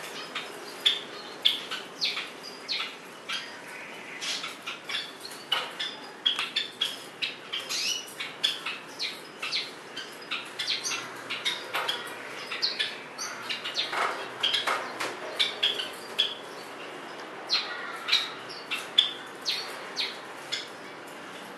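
White-eyes bathing among the leaves of a potted plant: a dense, irregular patter of wing flutters and leaf rustles, mixed with short high chirps.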